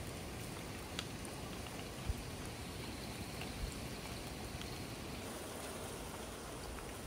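Steady rain from Hurricane Nicole's outer bands falling without a break, a low rumble under it and a few sharp drop ticks about one and two seconds in.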